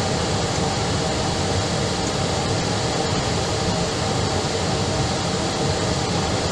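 Steady, unchanging drone of jet airliner engines, with a faint hum.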